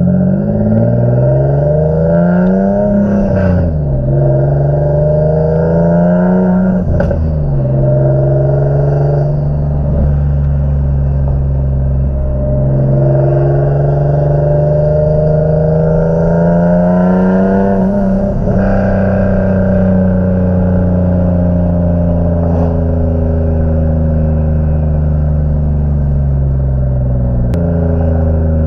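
Single-turbo Infiniti G37's 3.7-litre V6 pulling through the gears: three times the engine note climbs and then drops at an upshift, with steadier cruising in between. A faint rising turbo whistle rides on the pulls, and a few sharp cracks from the exhaust come through.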